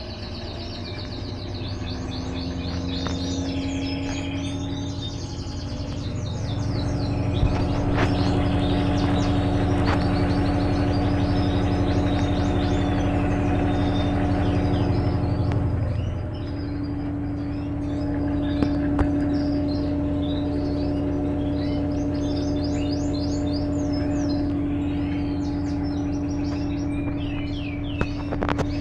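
Electrolux LTE12 washing machine draining between rinses: a steady mechanical hum over a low rumble, which dips briefly and eases about halfway through, then carries on. Birds chirp throughout.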